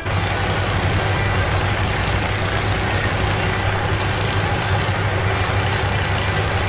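Combine harvester's diesel engine and machinery running steadily, a constant deep hum with a dense mechanical clatter and hiss over it.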